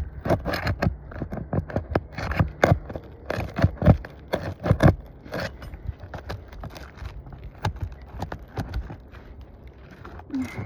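Asphalt roof shingles being worked by hand, irregular scraping and crackling clicks, dense for the first five seconds and sparser after. These are the sounds of shingles being lifted and bent back during a repair attempt on a wind-damaged shingle.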